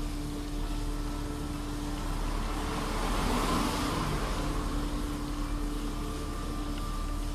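A motor vehicle running with a steady low rumble and hum, and a rush of noise that swells and fades about halfway through.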